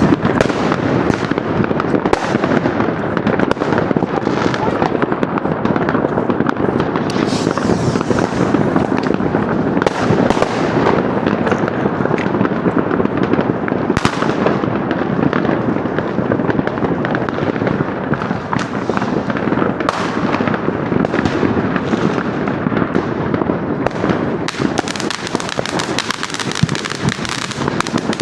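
New Year's Eve fireworks and firecrackers going off all around in a dense, continuous barrage: countless overlapping bangs and crackles merge into a steady din, with a few sharper cracks standing out.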